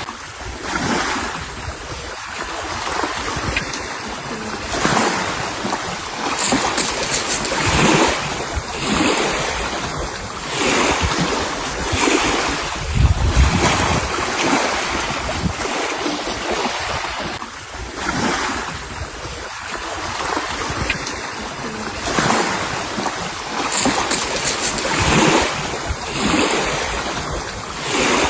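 Sea waves washing against the shore, swelling every second or two, with wind buffeting the microphone.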